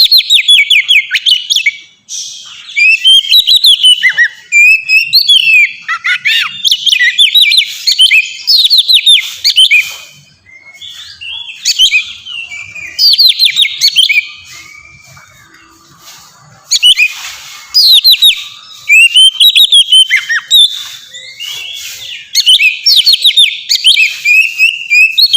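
Oriental magpie-robin (kacer) singing its loud, open song: runs of rapid whistled notes and trills in phrases of a few seconds, with short pauses between.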